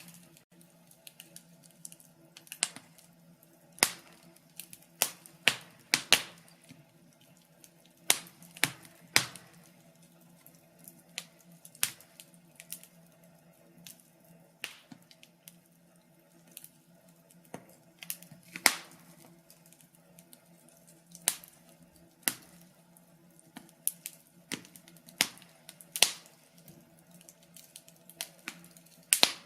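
Wood fire crackling: irregular sharp snaps and pops, a few each second at the busiest, over a faint steady low hum.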